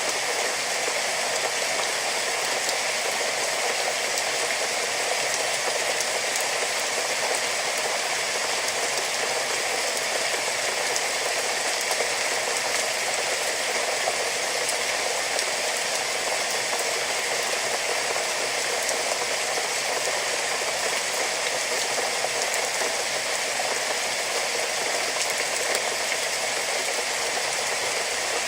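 Steady rain falling, a dense even hiss with fine pattering of drops.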